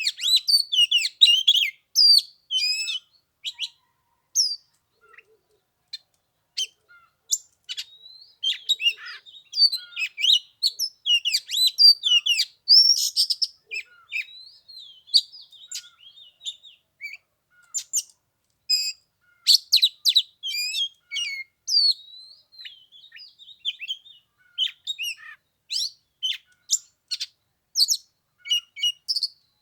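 Oriental magpie-robin singing: a varied, unbroken run of whistles, chirps and trills, with a short lull a few seconds in.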